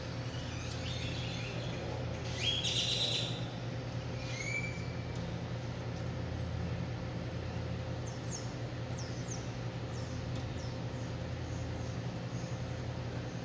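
Small birds chirping: a loud call about two and a half seconds in, a shorter one a couple of seconds later, and then a run of short, high, falling chirps. Under them runs a steady low hum.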